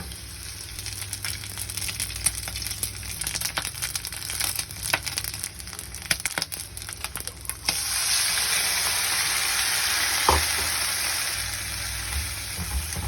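Noodles frying in hot oil in a pan while being stirred. Crackling and utensil clicks come first, then a louder, steady sizzle starts suddenly about eight seconds in.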